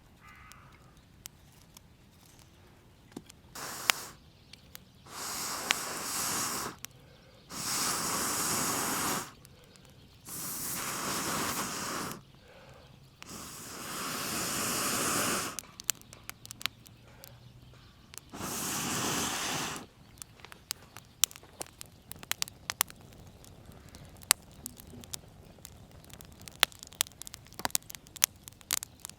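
Someone blowing on a newly lit wood fire in six long breaths, each a second or two, to bring the tinder to flame. After that the fire crackles with many small pops.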